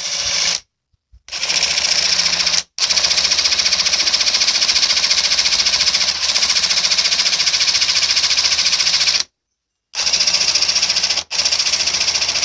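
AEG BSS18C12Z 18 V brushless cordless impact wrench on its lowest setting, driving a drill bit. Its hammer mechanism rattles rapidly in five bursts; the longest runs about six seconds in the middle, with short stops between.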